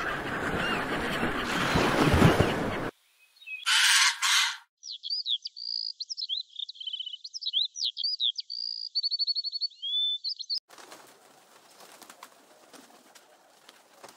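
Harsh bird calls over a loud rushing noise that cuts off about three seconds in, a short loud rushing burst, then bird song for about five seconds: varied sharp whistles and chirps with a quick trill, and after it only faint rustling.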